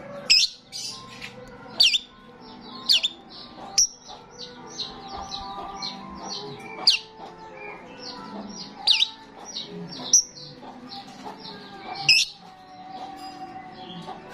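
A starling singing busily: a steady stream of quick chattering notes, broken by loud, sharp whistles that fall steeply in pitch, about eight of them at irregular intervals.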